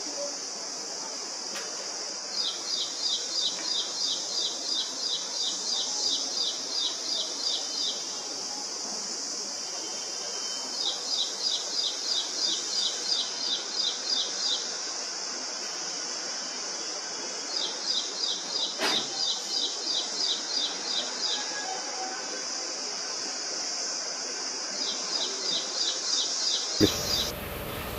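A bird sings in repeated bouts of rapid high chirps, about four a second, each bout lasting several seconds with short pauses between, over a steady high-pitched insect drone. Near the end everything cuts off suddenly into a lower, different background noise.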